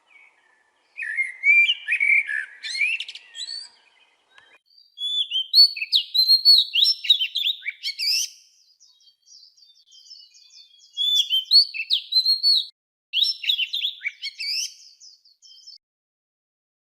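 Songbird singing in four phrases of quick, high chirping notes, each a couple of seconds long, with short pauses between them.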